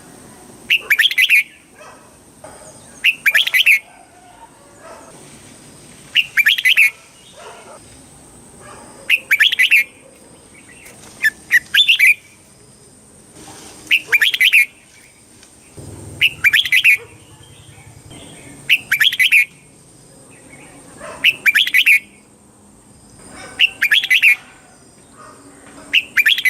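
Red-whiskered bulbul singing loud, short phrases, one about every two and a half seconds. A faint steady high-pitched tone runs underneath.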